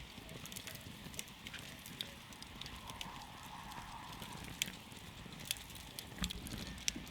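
Wood campfire crackling, with sharp pops and snaps at irregular intervals over a low, steady rumble.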